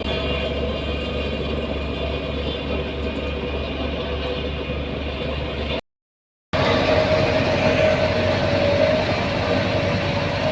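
A construction machine's engine running steadily. It cuts out to total silence for under a second about six seconds in, then resumes with a different character, as at an edit between two clips.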